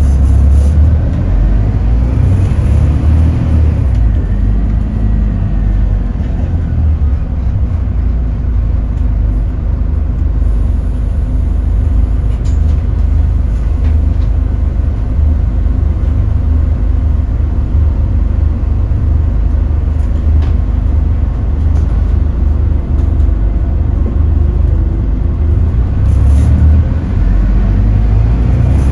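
Scania K280UB city bus diesel engine running under way, with a steady deep rumble; its pitch rises and falls in the first few seconds and again near the end as it speeds up and slows.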